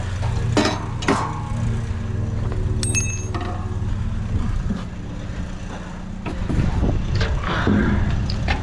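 A motor vehicle's engine idling steadily, with a few sharp knocks and a brief high ring about three seconds in, and more clatter near the end as an awkward item is handled.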